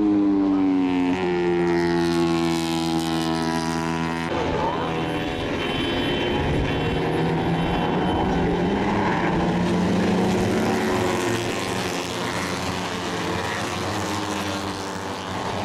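Moto3 racing motorcycles' 250cc single-cylinder four-stroke engines screaming at high revs past the grandstand. One bike is heard first, shifting about a second in. About four seconds in, the sound changes abruptly to several bikes howling together.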